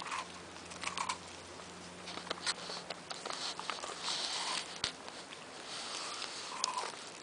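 Scottish terrier licking and lapping at an ice pop: a run of irregular licks, sniffs and small clicks.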